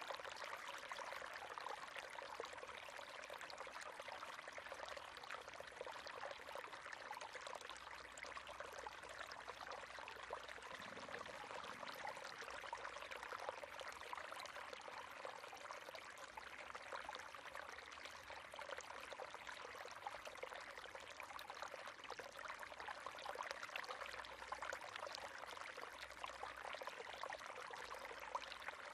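River water running and splashing steadily over stones, a dense, even babble of small splashes.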